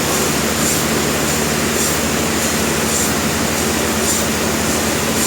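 Industrial sawmill machinery running steadily, with a constant low hum under a dense mechanical noise and a sharper hiss repeating about once a second.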